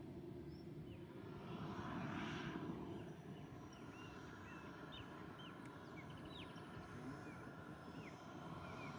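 Faint whoosh of a radio-controlled model jet passing, swelling and fading about two seconds in over a steady low rumble. From about three and a half seconds on, birds give many short high chirps.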